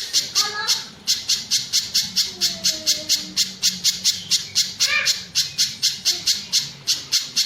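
Spiderhunter (pijantung gunung) calling: a fast, even run of sharp, high chips at about five a second, with a short whistled note now and then.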